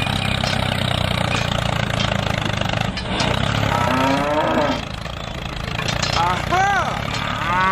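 A steady low engine hum runs throughout. About four seconds in comes a drawn-out pitched call, and near the end two short rising-and-falling calls.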